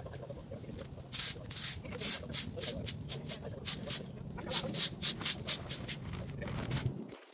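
Quick, irregular scraping or brushing strokes, several a second.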